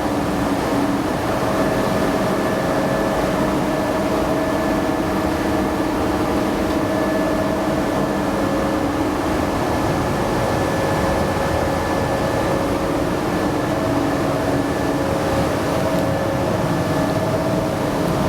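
Car spray booth's air-handling plant running steadily: the exhaust fan and the diesel-fired heater burner, a loud even rush with several held tones in it.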